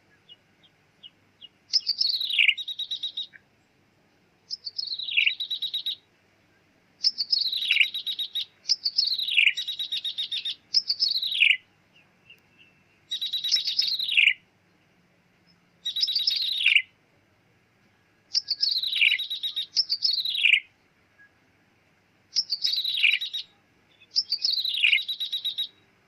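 A ciblek tebu, a small Javanese prinia, sings its 'meong' song type, a bird-lure recording. There are about a dozen short phrases, each a falling mewing note followed by a buzzy trill, repeated with short pauses between.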